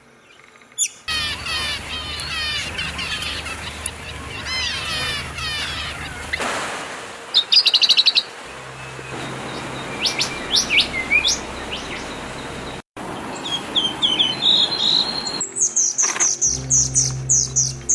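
Small birds chirping and calling in a run of short, abruptly changing segments: dense overlapping chirps at first, then a quick loud trill, several sharp downward-sweeping calls, and a fast series of high chirps near the end.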